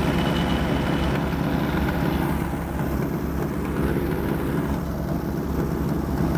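Allis-Chalmers D14 tractor's four-cylinder engine running steadily in second gear, pulling a back blade through snow.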